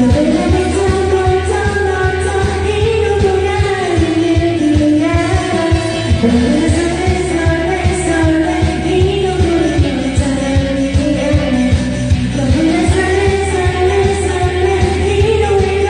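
A voice singing a slow Korean pop song along to a karaoke backing track, holding long, gently bending notes over a steady beat.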